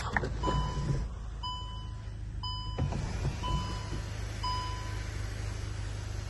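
Volkswagen Golf GTI's interior warning chime dinging about once a second, five times, then stopping, over a steady low hum while the electric sunroof motor opens the roof.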